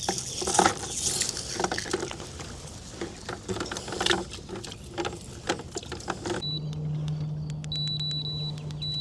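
Rapid, irregular tapping and rattling of a cast net full of freshly caught shad, the small fish flopping against the net and the boat. About six seconds in it cuts abruptly to a steady low hum with short high-pitched beeps.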